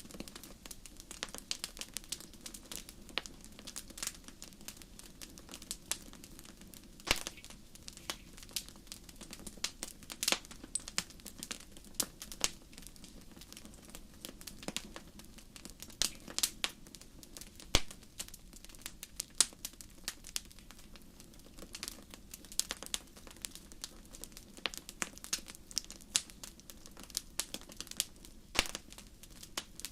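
Wood fire crackling: irregular sharp pops and snaps, several a second with a few louder cracks, over a faint steady low background.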